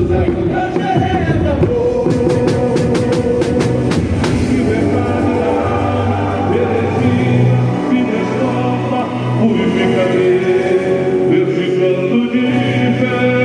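Amplified live boi-bumbá toada: singing over band and percussion, with a quick run of sharp percussion hits about two to four seconds in.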